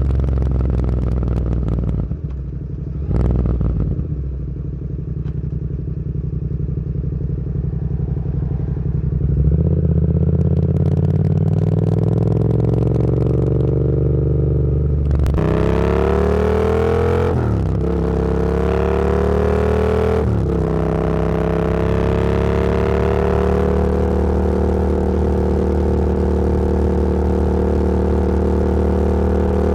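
Motorcycle engine running at low, steady revs, then accelerating from about halfway, rising in pitch through two upshifts before it settles into a steady cruise.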